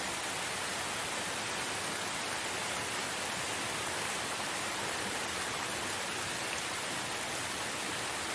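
Steady rain falling in a forest, an even hiss without breaks or distinct drops.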